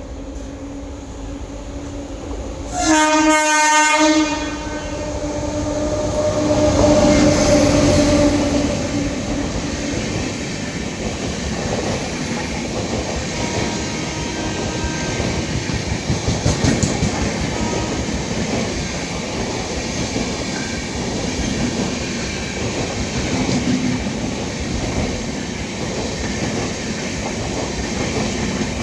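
Indian Railways superfast express passing at speed without stopping, its locomotive horn blaring: a loud horn blast about three seconds in, the horn sounding on for several more seconds as the train comes through. After that comes the steady rumble and clickety-clack of the coaches rushing past.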